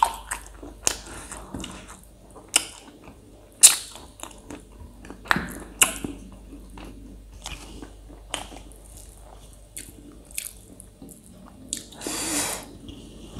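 Close-miked chewing and mouth sounds of a person eating rice and pork by hand: short wet smacks and clicks at irregular intervals, with a brief hissing noise near the end.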